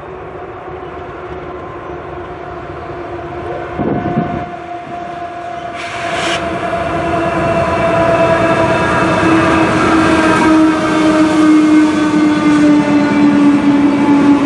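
Freight train approaching behind a GE ES44AC diesel-electric locomotive, steadily growing louder. There is a droning engine note of several held tones over a rail rumble, with brief clatters about four and six seconds in.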